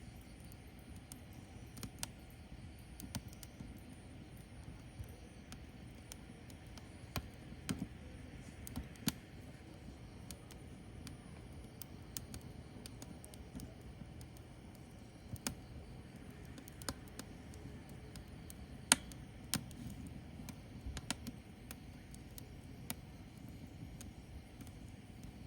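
Firewood burning: irregular sharp crackles and pops, a few of them louder, over a low steady rumble of the fire.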